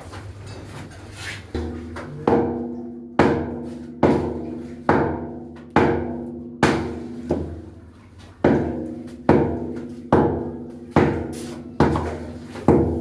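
Repeated hammer blows on a water tank, roughly one a second, each leaving the hollow tank ringing briefly as the opening in it is worked.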